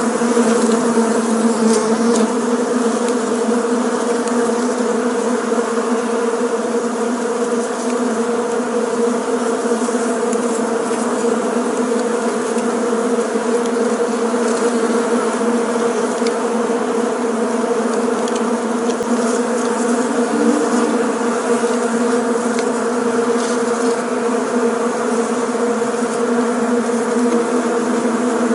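Many honeybees buzzing together in a steady, continuous drone.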